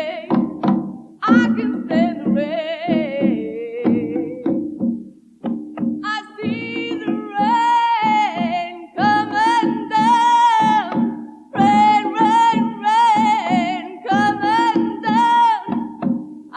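Band music with a woman singing long held notes with a wide vibrato in phrases, over a low accompaniment and light percussion.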